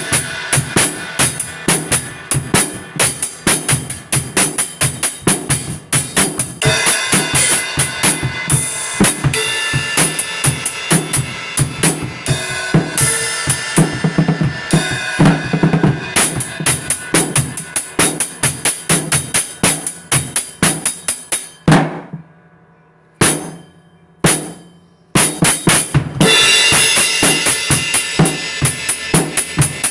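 Drum-led music: a drum kit playing a fast, steady beat of kick, snare and cymbal hits. It breaks off for a few seconds about two thirds through, with only a couple of single hits, then picks up again.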